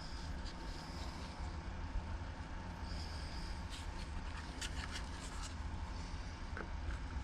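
Light rubbing and a few small clicks of parts being handled as the cleaned air filter is fitted back into the string trimmer's housing, over a steady low hum.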